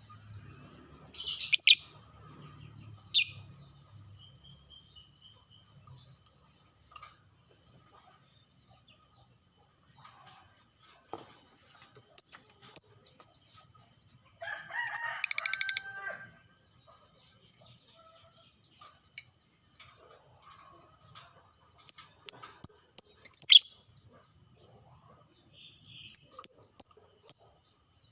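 Lovebird singing: a long run of quick, shrill high chirps, broken by a few louder harsh screechy bursts, the biggest about fifteen seconds in.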